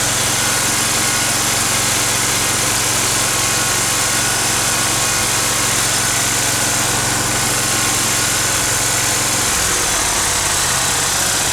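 Kohler engine of a Dixon 72-inch zero-turn mower running steadily at idle with the blade clutch belt unhooked, sounding healthy after new ignition coils and spark plugs cured a cylinder that was not firing. The tone shifts slightly near the end.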